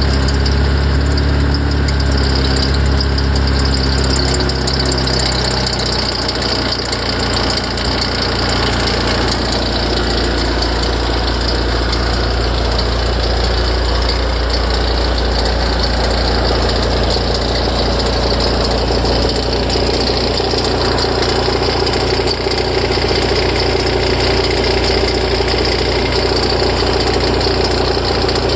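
Ferrari F355's V8 idling with an abnormal knocking noise from the front of the engine. The owner reports this noise starts tens of seconds after a start and fades as the idle settles. The low engine note changes about six seconds in.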